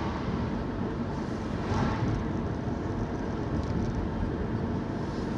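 Steady road and engine noise of a car being driven, heard from inside the cabin, with a slight swell about two seconds in.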